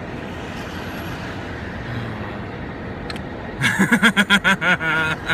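Steady road and engine noise of a car driving with the window down, then about three and a half seconds in a man bursts into loud, rapid laughter.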